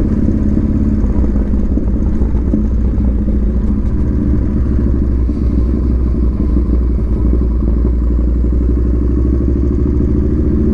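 Yamaha Bolt's air-cooled 942cc V-twin running steadily as the motorcycle is ridden, with no change in engine speed.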